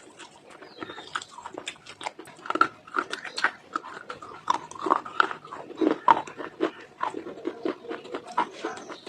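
Dry eating clay being bitten and chewed, a dense run of irregular crisp crunches and clicks.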